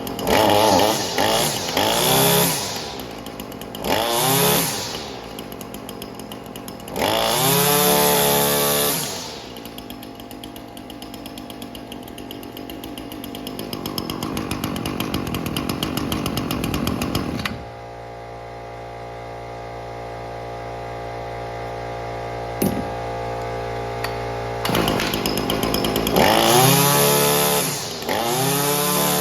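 Echo string trimmer's two-stroke engine blipped up to speed and back several times, then idling steadily for a long stretch, then revved again a few times near the end.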